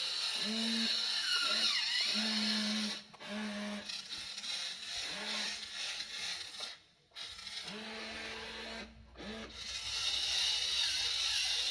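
Electric motors of a Wltoys RC excavator whining in short runs that start and stop over and over, each starting with a quick rise in pitch, over a steady high hiss.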